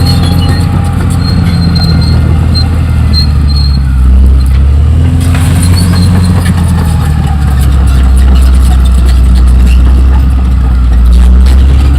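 Caterpillar D6R XL crawler dozer working: its diesel engine running loud, the pitch rising and falling with the load. High squeals and frequent clanks come from the steel tracks.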